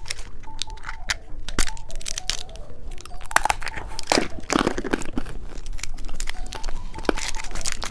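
Candy wrapper being torn open and crinkled by hand: a run of sharp crackles and rustles, busiest about halfway through.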